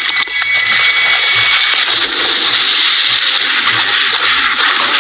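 Loud, steady churning and splashing of river water. A thin high tone fades out about two seconds in.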